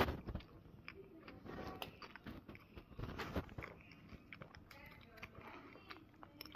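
Faint chewing of a soft pastry, with scattered small clicks and soft rustles.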